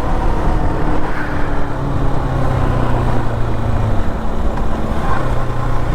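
Single-cylinder KTM motorcycle engine running at a steady low cruise, heard over a constant rush of wind noise; the engine note dips about four seconds in and picks up again a second later.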